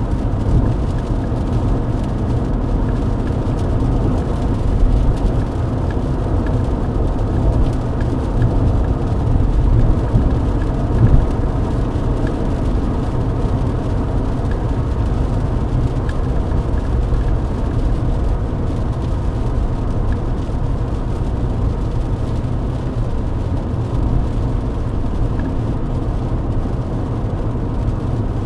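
Mercedes-Benz W124 cruising at steady highway speed on a wet road: steady engine drone and low road rumble with tyre noise.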